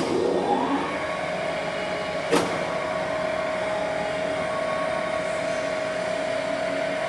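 Takisawa TAL 560 engine lathe spindle starting up: a whine rising in pitch over about a second, then running at a steady speed with one sharp click about two seconds in.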